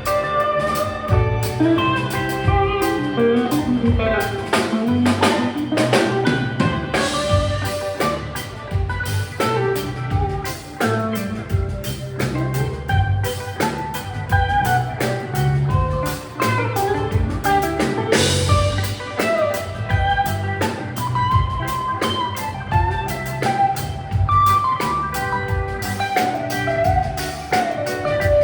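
Live rock band playing an instrumental passage: a guitar playing lead lines over bass and drum kit, with cymbal crashes about seven and eighteen seconds in.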